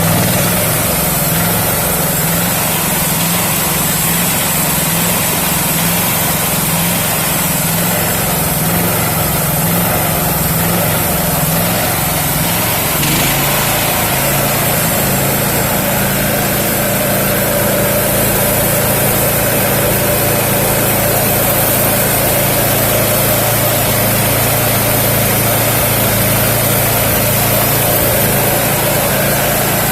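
Electric-start petrol engine of a homemade sawmill running steadily, warmed up with the choke off. Its note shifts slightly about thirteen seconds in, then holds steady.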